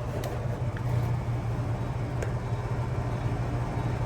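Steady low hum with an even whooshing noise from a running outdoor central air-conditioner condenser unit, with a couple of faint ticks.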